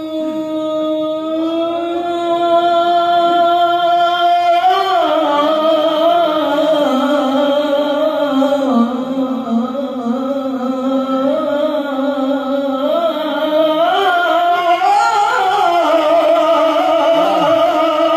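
A qori's solo voice in melodic Qur'anic recitation (qiroah). A long held note steps up slightly, then from about five seconds in the voice moves into wavering ornamental runs with heavy vibrato (cengkok).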